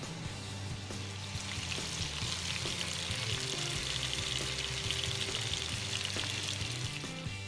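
Chicken thighs sizzling as they brown in oil in a pot, under background music. The sizzle comes in about two seconds in and fades near the end.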